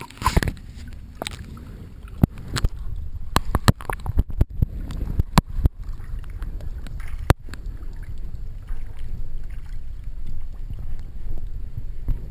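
Small boat out on the water: a steady low rumble of wind and water on the microphone, with sharp knocks, several in quick succession in the first six seconds and one more loud one about seven seconds in.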